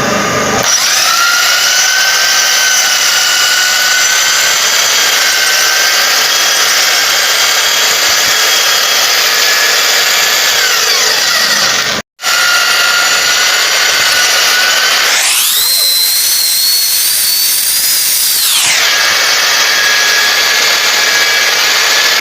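Electric power tool motor whining at a steady high pitch. It slows and cuts out briefly about halfway, then starts again and speeds up sharply to a much higher whine for about three seconds before dropping back to its earlier pitch.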